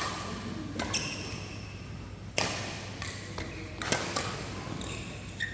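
Badminton rackets striking a shuttlecock in a fast doubles rally: about half a dozen sharp hits at irregular intervals of about a second, with short squeaks from players' shoes on the court floor between them.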